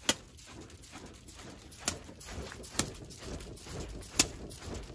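Wood fire crackling, with four sharp pops spread through it, the last the loudest, as the fire is fanned to get it burning again.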